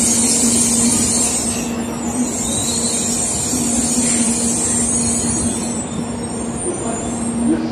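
Tokaido Shinkansen train moving off along the track past the platform: its running noise, a high hiss, slowly fades as it leaves, over a steady hum, with a faint whine that shifts in pitch partway through.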